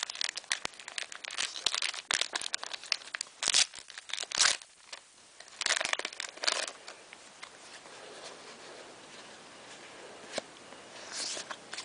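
Foil Pokémon Generations booster pack being torn open and crinkled as it is handled, a dense crackling that thins out after about seven seconds to faint, sparse rustles and clicks.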